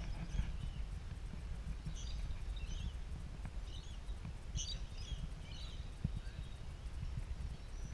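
Scattered short, high bird chirps from about two to six seconds in, over a steady low rumble of outdoor background noise.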